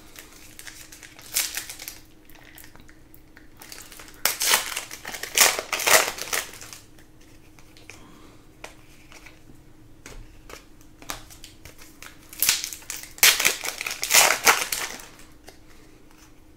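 Crinkling and crumpling of foil trading-card pack wrappers being torn open and handled, in three bouts: a short one about a second and a half in, a longer one around four to seven seconds, and another near the end.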